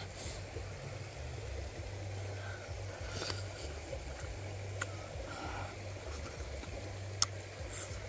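A person biting into and chewing a soft, saucy braised chicken egg cluster, with a few sharp wet mouth clicks in the second half, over a steady low rumble.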